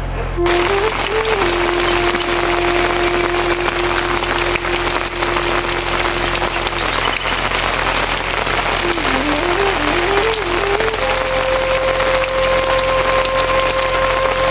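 Steady heavy rain hiss that sets in about half a second in. Over it plays background music: a slow flute melody of long held notes with small wavering turns.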